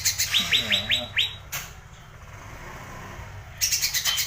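Songbird singing fast runs of sharp, downward-sweeping chirps, several a second. It pauses for about two seconds midway and starts again near the end.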